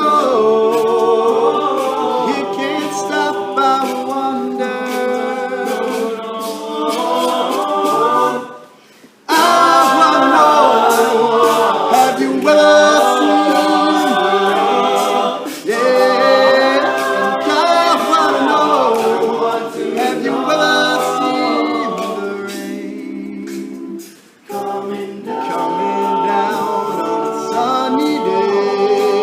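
All-male a cappella group singing close harmony without instruments, with two brief breaks, about nine seconds in and again about twenty-four seconds in.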